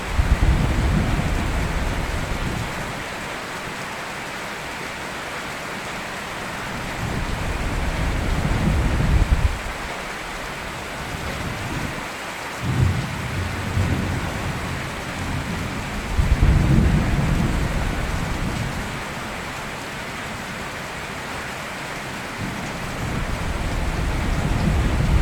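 Steady rain with repeated rolls of thunder: about five deep rumbles over the rain, some starting sharply and others swelling slowly and breaking off suddenly.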